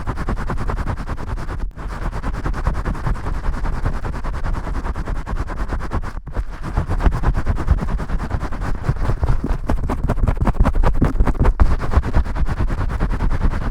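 Vigorous, fast scrubbing of shampoo-lathered hair close to the microphone: dense crackly rubbing and squishing of foam, with two brief pauses in the strokes.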